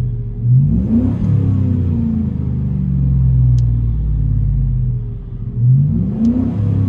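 2009 Chevy Silverado's 5.3-litre V8 on true dual exhaust through a Borla Pro XS and an 18-inch Magnaflow muffler, idling and revved twice: once about a second in and again near the end, each rev rising quickly and falling back to idle. Heard from inside the cab.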